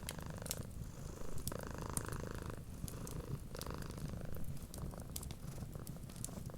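A cat purring steadily and close, over the irregular small pops and snaps of a crackling wood fire.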